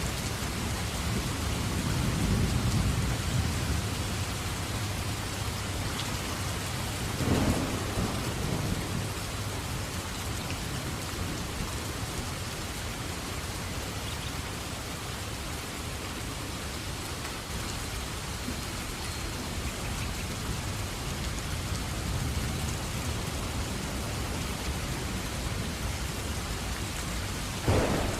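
Steady rain with thunder: a low rumbling roll about two seconds in, a sharper thunderclap about seven seconds in, and another clap near the end.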